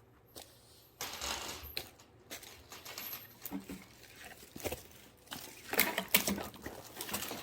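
Split firewood being handled: a run of irregular wooden knocks and clatters with rustling in between, the sharpest knocks a little under 6 s in.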